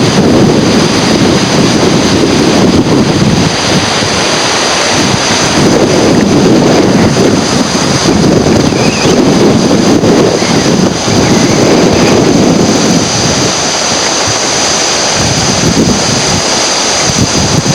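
Loud rushing water with wind buffeting the microphone, surging and easing every few seconds, over a steady high hiss.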